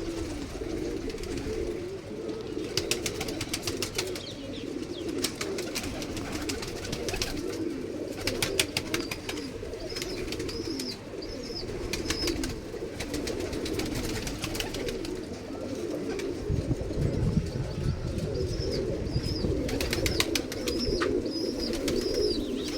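A flock of pigeons cooing continuously, many overlapping coos. Bursts of sharp clicking sounds come through it at times, and a repeated high chirp is heard near the end.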